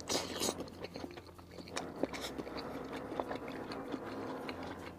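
Close-miked chewing of a mouthful of crispy garlic fried chicken with a thin crisp skin: a few crunches at the start, then quieter chewing with small clicks.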